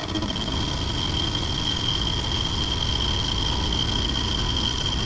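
Precision Matthews PM-25MV benchtop milling machine running with an end mill cutting along the edge of metal stock, a steady high whine over continuous cutting noise. The cutter is squaring up the edge, still working through the rough outer surface toward clean material.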